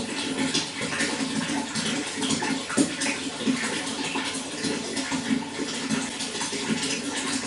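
Running water splashing and gurgling steadily, with many small irregular splashes.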